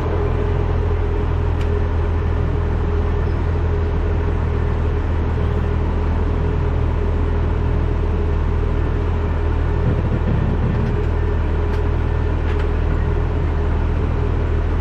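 Acco truck driving at a steady speed: a low engine and road rumble with a steady hum, under heavy wind noise buffeting the front-mounted camera's microphone.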